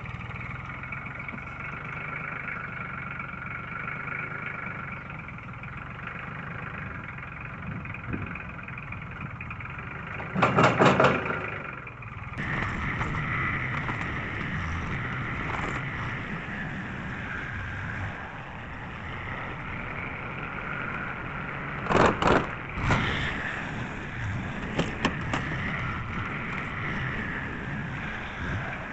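Tractor engine running steadily with a constant whine. It is broken twice by a short burst of loud, rapid knocks, about ten seconds in and about two-thirds of the way through, with a few lighter knocks shortly after the second.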